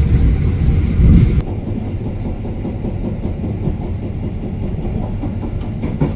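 A train running on rails: a heavy, low rumble that drops abruptly about a second and a half in to a quieter, steady rumble with a few faint clicks.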